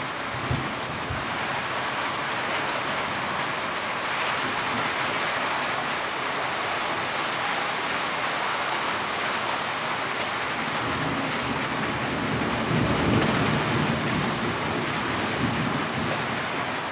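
Heavy rain falling steadily, with a low rumble swelling about twelve seconds in and a few brief low thuds.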